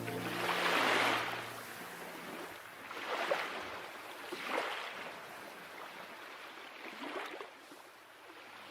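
Water washing in repeated swells, each rushing surge rising and falling back every couple of seconds, with the tail of soft background music fading out in the first two seconds.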